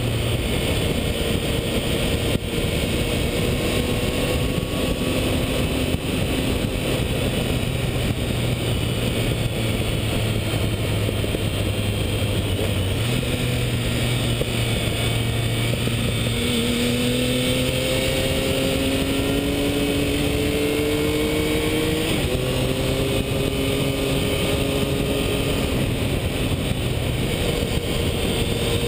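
Triumph Tiger 1050's inline-three engine running under way, under heavy wind rush. The engine note holds fairly steady for a long stretch, then climbs under acceleration in the second half, with an abrupt shift in pitch partway through the climb.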